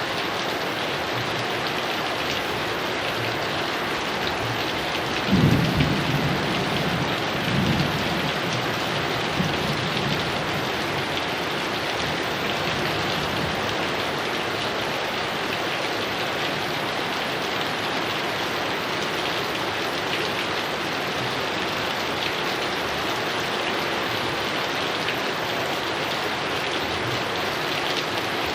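Steady heavy rain, with a roll of thunder about five seconds in, loudest at first and rumbling on for a few seconds before fading back under the rain.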